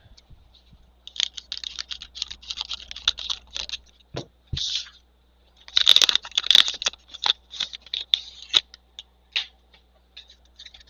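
A foil trading-card pack being crinkled and torn open, with the cards inside handled and flicked: a run of dry scratchy crackles and clicks, loudest about six seconds in.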